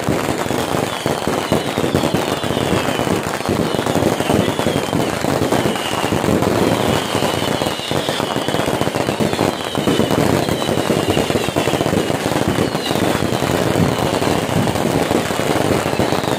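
Fireworks and firecrackers crackling and popping in a dense, continuous barrage. High, short falling whistles repeat about once a second.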